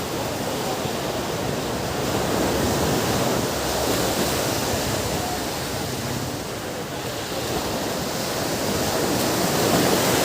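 Ocean surf breaking on a beach: a steady wash of waves that swells louder a few seconds in and again near the end.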